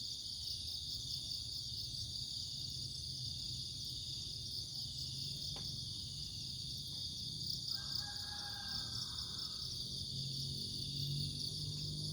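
Steady high-pitched chorus of crickets trilling over a low, steady background rumble, with a faint brief tonal call about eight seconds in.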